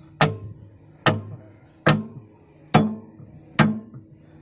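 A hammer striking the steel of an excavator bucket tooth in steady, even blows, five strikes a little under a second apart, each with a short metallic ring. This is the tooth being knocked off or driven on by hand.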